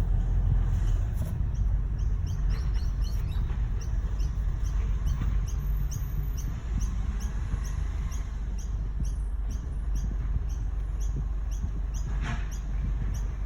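A vehicle engine running with a steady low rumble, with a short high chirp repeating about twice a second over it, and a brief noisy sound near the end.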